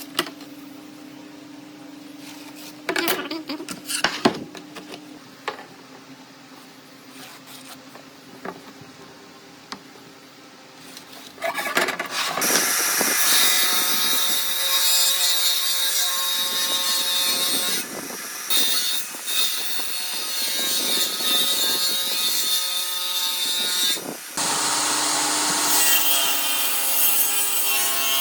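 A few wooden knocks and handling sounds. Then, from about twelve seconds in, a power tool cuts into pallet wood and runs loud and steady, pausing briefly a few times.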